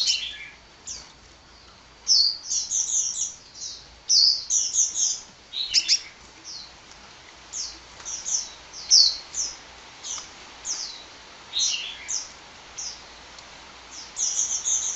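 Sunbird singing: high, thin chirps, each a quick downward sweep, mostly in fast runs of two to four notes repeated every second or so over a faint hiss.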